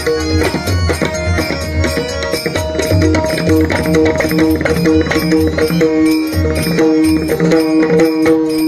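Bhajan accompaniment without singing: steady held notes, typical of a harmonium, over a regular hand-drum rhythm with small cymbal clinks.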